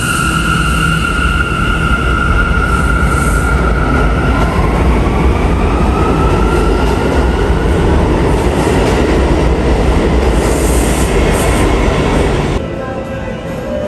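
New York City subway train running loud through the station, with steady high wheel squeal tones and a tone that rises in pitch partway through. The noise drops off suddenly near the end.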